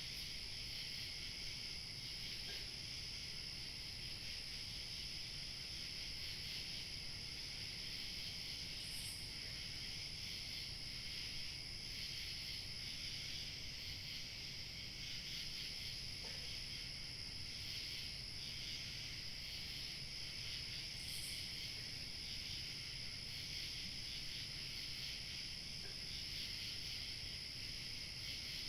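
A steady chorus of crickets chirping, with a thin higher tone that swells briefly twice. A low rumble of light wind runs underneath.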